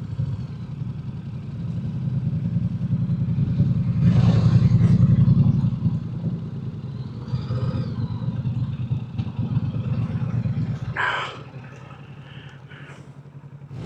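Motorcycle engine running with a low pulsing rumble, swelling louder about four seconds in, then easing off and dropping quieter near the end.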